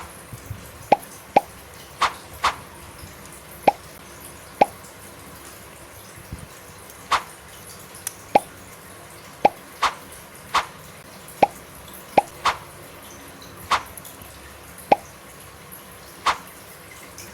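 Irregular sharp clicks and taps of hard plastic toy parts being handled and fitted together, roughly one or two a second, some with a short ringing tail.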